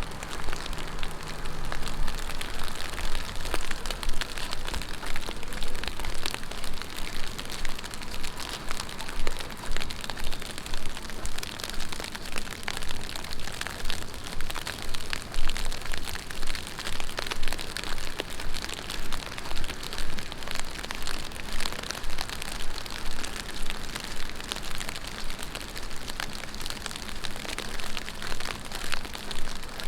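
Heavy rain falling steadily on a city street, a dense patter with a regular swell about once a second. A faint low hum sounds near the start and again toward the end.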